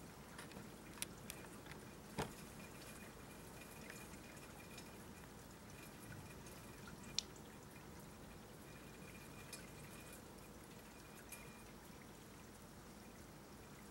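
Scattered drips of leftover rainwater falling just after a downpour has stopped: a few separate sharp ticks at irregular intervals over a faint steady hiss.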